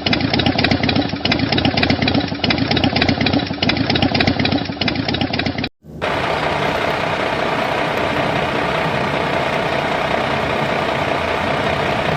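A machine motor running, first as a fast, even rattling pulse, then after an abrupt cut as a steady whir with a constant whine.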